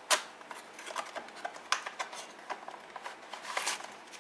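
Product packaging being opened by hand: a sharp click just after the start, then scattered small clicks and rustles as the box and its inner packing are handled.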